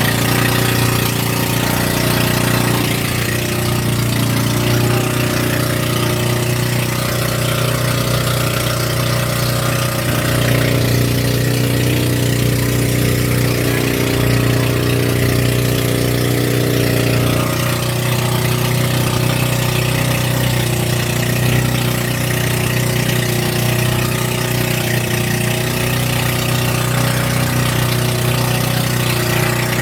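Boat engine running steadily at an even speed, with a constant hiss over it.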